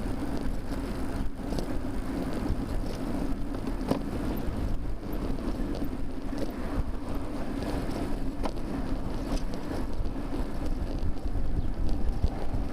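Wind buffeting a bicycle-mounted camera's microphone while riding, over a steady road rumble, with faint scattered clicks and rattles.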